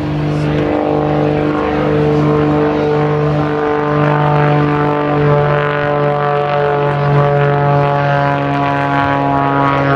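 Piston engine and propeller of a light aircraft running steadily, a loud even drone with a strong pitched buzz whose pitch shifts only slightly.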